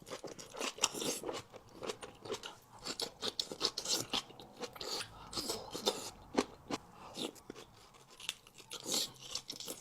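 A person chewing a mouthful of onion and boiled egg, with crisp, irregular crunches all through.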